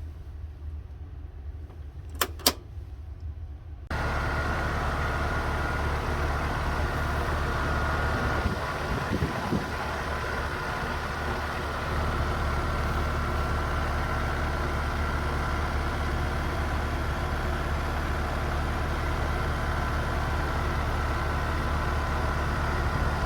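Air conditioner with a newly replaced capacitor: a low hum and two short clicks, then about four seconds in the unit starts up and runs steadily, a low hum with a whooshing fan and a faint steady whine.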